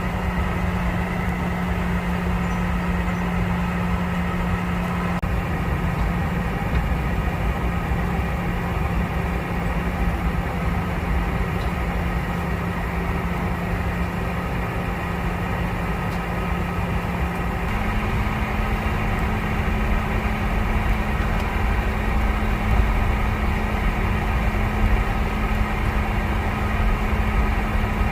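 Cabin noise of a Boeing 717-200 on the ground, with the steady hum of its Rolls-Royce BR715 jet engines. A low drone in the hum steps up slightly in pitch about two-thirds of the way through.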